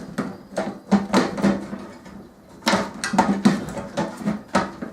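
Metal parts of a microwave oven being handled and pried apart with hand tools: irregular clusters of clicks, knocks and clatter, with a short lull about two seconds in.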